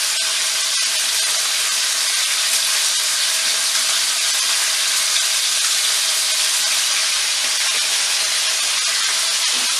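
Pieces of chicken fillet sizzling steadily in a frying pan.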